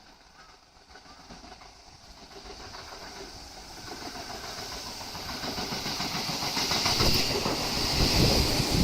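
Tobu 8000 series electric train (set 8111F) approaching on the rails, its running noise growing steadily louder and swelling to a loud rumble with a high hiss from the wheels in the last couple of seconds.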